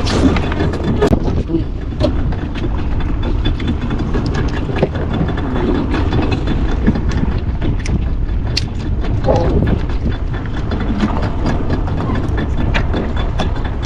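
A boat's engine running with a steady low rumble, with scattered small knocks and clicks.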